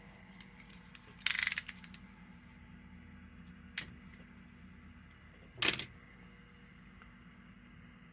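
Small tools and parts being handled at a workbench: a short clatter about a second in, a single click near four seconds and a louder click near six seconds, over a low steady hum.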